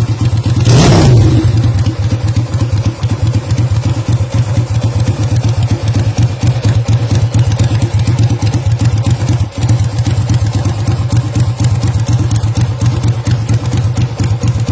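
Custom 80° V-twin built on the Honda GL100 engine idling with a steady, uneven firing beat, with one quick throttle blip about a second in.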